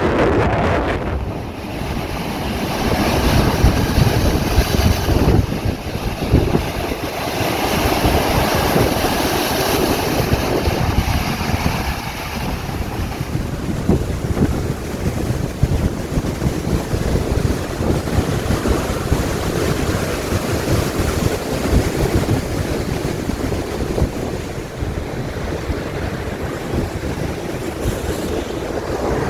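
Ocean waves washing against the shore, with strong wind buffeting the microphone; a louder surge of surf in the first half, then a steadier wash.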